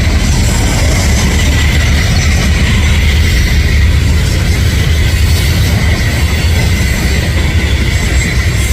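Loaded Union Pacific coal train rolling past: a loud, steady heavy rumble of the cars on the rails, with a thin high wheel squeal held over it.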